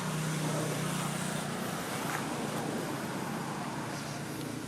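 Steady background noise of road traffic, with a low engine hum.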